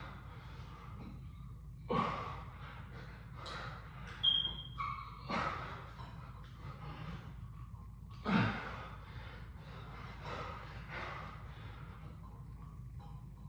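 A man's heavy breaths and forceful exhales, about six short bursts spaced a second or more apart, from the strain of lifting during a weight-training set. A steady low hum runs underneath.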